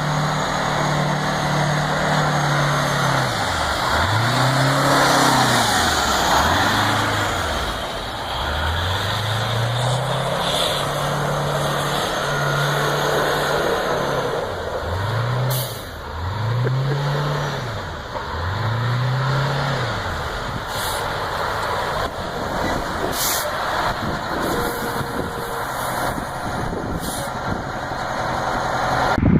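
Heavy 8x8 military truck's diesel engine revving up and down over and over, with a steady rushing noise underneath and a few sharp clicks.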